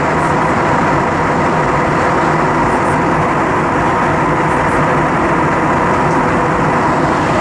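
Steady cabin noise inside an Airbus A320-232 airliner: an even rush of engines and airflow with a faint steady hum through it.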